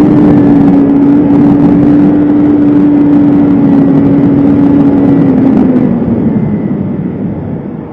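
BMW S1000RR inline-four engine running hard at high revs with a steady note, then the throttle rolls off near the end and the note sags and quietens.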